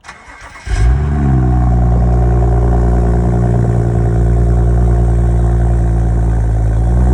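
BMW 335i's N55 turbocharged straight-six starting up a little under a second in: a quick rise in revs, then a steady, loud idle.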